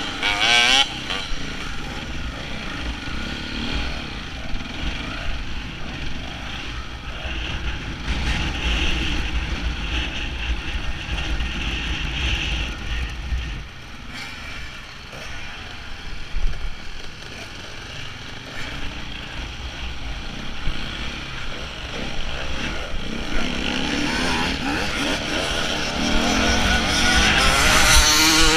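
KTM enduro motorcycle engine heard from on the bike itself, its revs rising and falling as it rides, with wind rumbling on the microphone. Over the last few seconds another dirt bike comes alongside and the engine sound grows louder, with revving glides.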